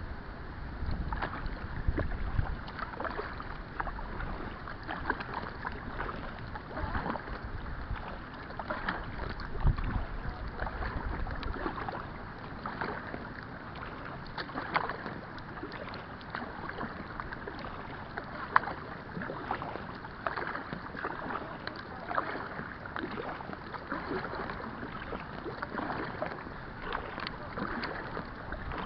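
Kayak paddling on calm water: the paddle blades dip and splash, and water drips and trickles in many small, irregular splashes. Wind rumbles on the microphone for roughly the first twelve seconds, then dies away.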